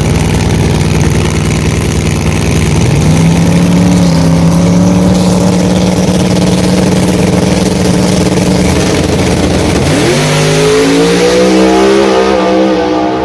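Drag race car engine running loud at the strip. It steps up in pitch about three seconds in, then revs up sharply near the end and keeps climbing.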